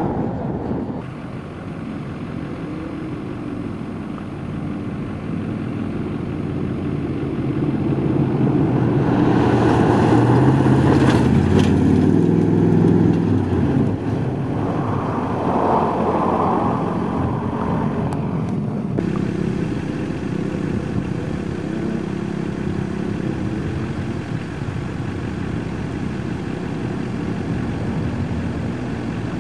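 Truck engine running under load and revving, swelling to its loudest with rising pitch about ten seconds in, then settling to a steadier run.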